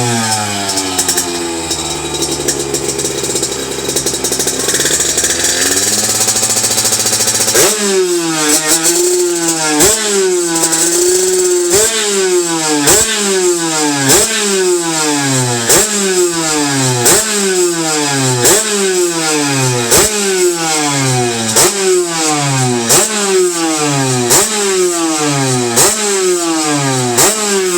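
Small two-stroke moped engine with a Kaos expansion exhaust, running on its first start-up. For about the first seven seconds the revs fall away and it runs at a lower, steadier speed. From about eight seconds in the throttle is blipped about once a second, and each rev rises sharply and falls back.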